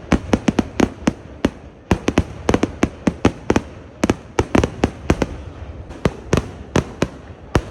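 Festival fireworks: a rapid, irregular string of sharp firecracker bangs, several a second, with short lulls between clusters.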